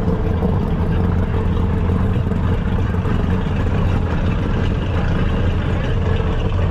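A motorboat's engine running steadily at an even, unchanging speed.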